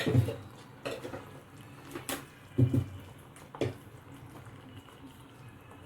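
A spoon clinking and knocking against cookware while salt is added to the sauce in the pan: about five short separate knocks over the first four seconds.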